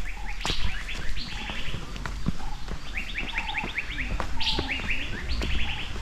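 Forest birds chirping: several runs of quick, falling chirps, with short lower notes between them and scattered clicks.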